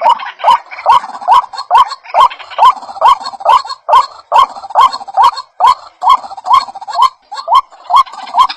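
White-breasted waterhen (ruak-ruak) calling over and over in the loud, looped rhythm of a bird-lure recording: short rising notes at about two to three a second.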